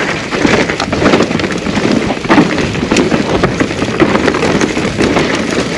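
Mountain bike riding down a dirt forest trail: tyres on dirt and roots and the bike's chain and frame rattling, a dense run of clicks and knocks.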